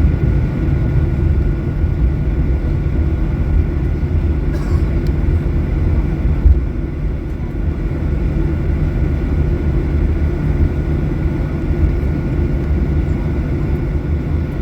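Boeing 737-800 CFM56 jet engines and airflow heard inside the passenger cabin: a loud, steady low rumble with a faint, even whine above it.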